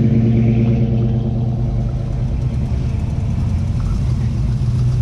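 Engines of classic cars passing at low speed: one car's engine drone, steady in pitch, fades away over the first two seconds, and another engine builds up near the end.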